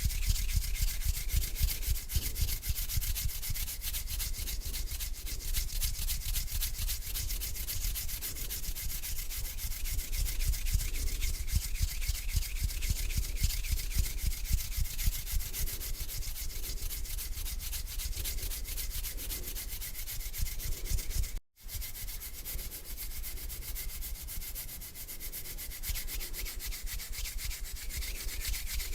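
Two hands rubbing palm against palm in slow strokes, a continuous dry rustling that cuts out for a split second about two-thirds of the way in.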